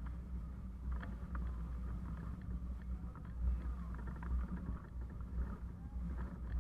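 Steady low rumble of wind buffeting the microphone on a moving bicycle, with rolling road noise and a few faint clicks and chirps above it.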